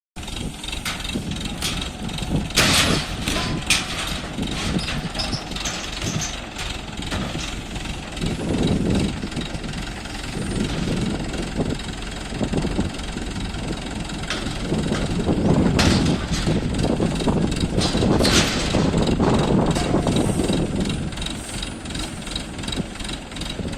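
ACE 14XW crane's diesel engine running through a lift, swelling louder twice, with a few sharp knocks or clanks.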